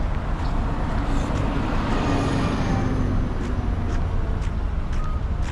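City street traffic: a steady low rumble with a motor vehicle passing close by about two seconds in, its engine tone dropping slightly as it goes, and a few faint sharp clicks.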